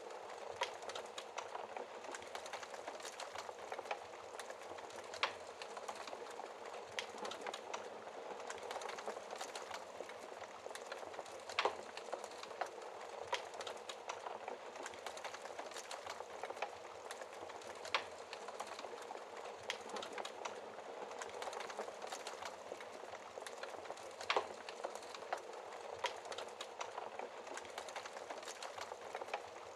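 Wood fire crackling in a fireplace: a steady hiss of burning with frequent small crackles, and a sharper pop every several seconds.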